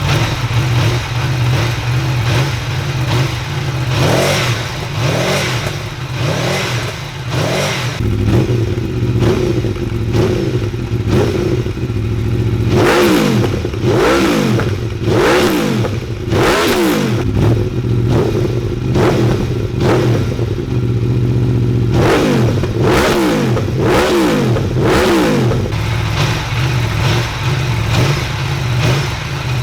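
Aprilia Tuono V4 1100 Factory's V4 engine idling, then blipped repeatedly on the throttle in two runs, about twelve seconds in and again about twenty-two seconds in, the revs rising and dropping sharply with each blip.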